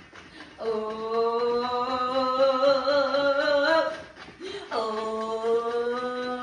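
A singing voice holding two long, steady notes of about three seconds each, with a short break between them.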